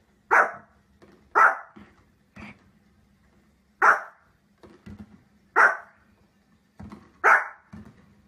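Small fluffy dog barking: five sharp, single barks spaced one to two and a half seconds apart, with fainter short sounds in between.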